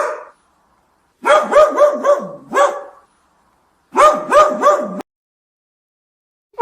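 A small dog yapping: a quick run of high-pitched barks, then a second run after a short pause that cuts off abruptly.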